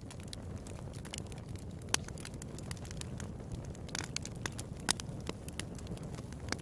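Wood fire burning in a fireplace: a steady low rumble with irregular crackles and sharp pops, the loudest about two, four and five seconds in.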